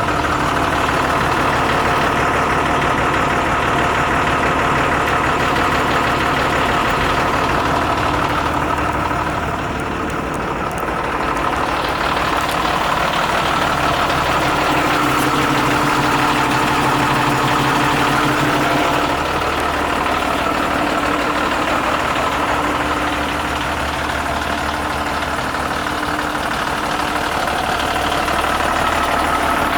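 Renault Midliner M210 4x4 truck's diesel engine idling steadily.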